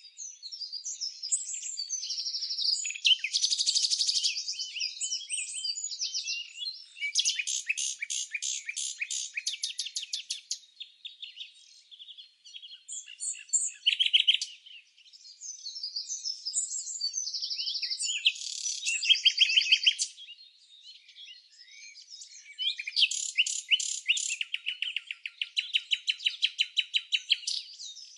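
Small songbirds chirping and singing: bouts of twittering phrases and fast trills of rapidly repeated notes, separated by brief lulls.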